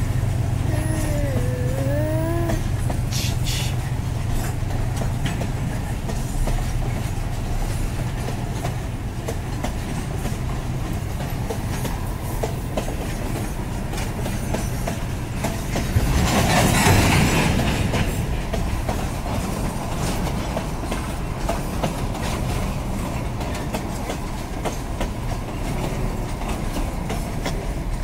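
Empty freight wagons (flatcars and gondolas) rolling past on the track with a steady rumble and wheels clacking over the rail joints. A brief wavering whine comes near the start, and a louder rushing swell about sixteen seconds in.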